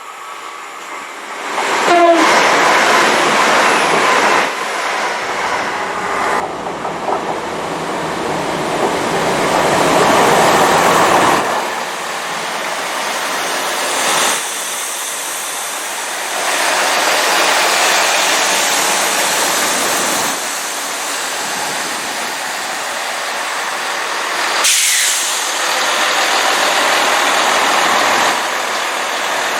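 Train passing close by on the main line: a loud, steady rush of wheels on the rails that rises sharply about a second and a half in and holds, stepping up and down in level several times.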